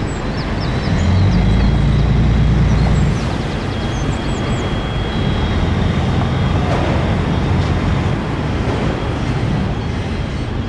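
Street traffic: a motor vehicle's engine runs close by, loudest from about one to three seconds in, then a lower traffic rumble continues. Small birds chirp briefly over it.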